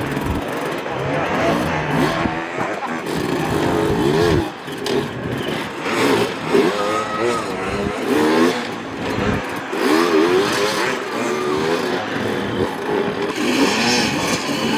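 Enduro dirt bike engines revving, the pitch rising and falling over and over with throttle blips. Near the end, a higher-pitched engine note comes in.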